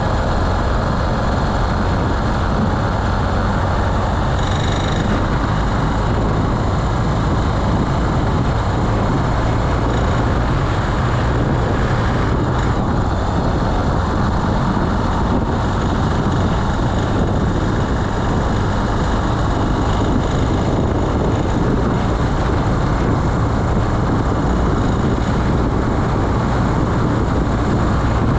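Carburetted Honda BeAT scooter's small single-cylinder engine running steadily under way, mixed with steady wind and road noise.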